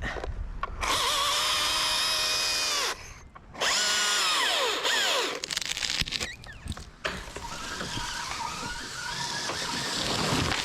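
Electric chainsaw whining in bursts as the trigger is squeezed and released, its pitch sliding down each time it spins down. It then runs longer, rougher and wavering, as it cuts through wood.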